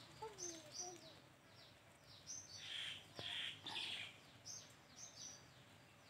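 Small birds chirping faintly: short, high chirps that slide downward, repeated many times, with a few rougher, scratchier calls about halfway through.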